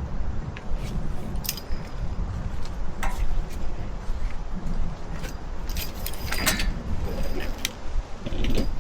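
Strong wind buffeting the microphone with a low rumble, while light metallic clinks and rattles, like tarp hardware being handled, sound now and then, clustering a little past the middle.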